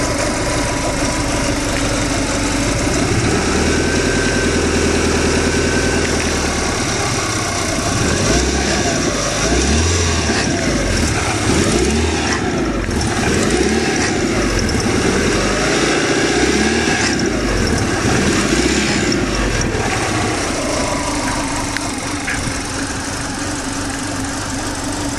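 Eagle Summit wagon's four-cylinder engine idling, running smooth and quiet with a new timing belt and a repaired exhaust leak; the idle speed is set a little low.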